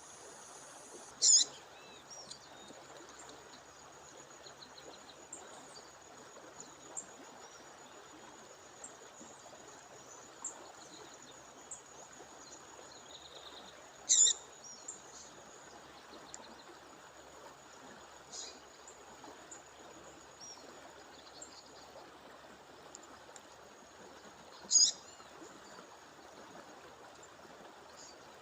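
A bird's female call, three loud short high calls about ten seconds apart with fainter chirps between, over the steady rush of a waterfall.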